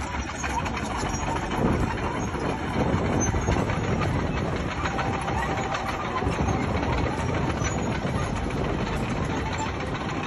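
Bulldozer working, its diesel engine running steadily under a constant clatter that fits steel tracks clanking.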